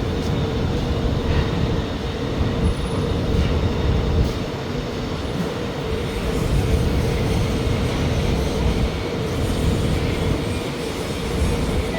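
Metro train noise: a steady rumble with a steady hum that stops about nine seconds in.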